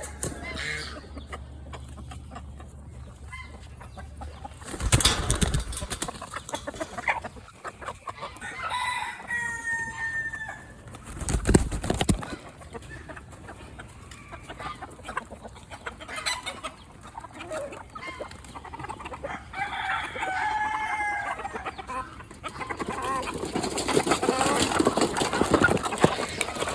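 Chickens clucking and calling, with two drawn-out calls partway through and again later. Two brief loud bursts of noise come early and near the middle, and a busier, noisier stretch comes near the end.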